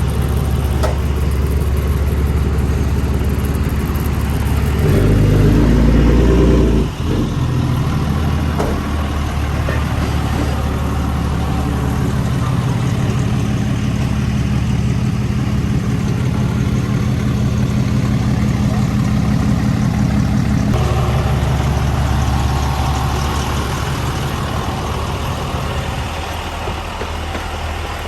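Heavy diesel truck engine running steadily, revving up briefly about five seconds in and dropping back sharply to a lower speed, with another change in engine speed near the end.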